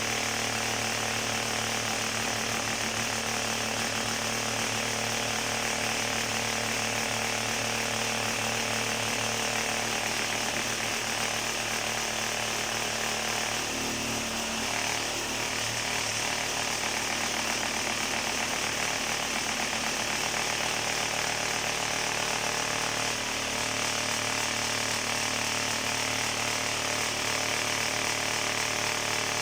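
Concrete-casting machinery running continuously: a steady electric motor hum with a fast, even rattle.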